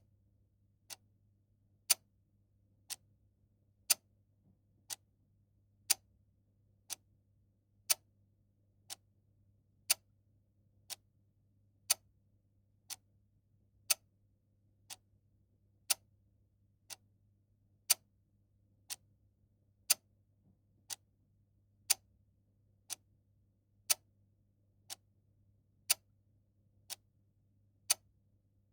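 Mechanical clock ticking steadily, one tick a second, the ticks alternating louder and softer in a tick-tock pattern.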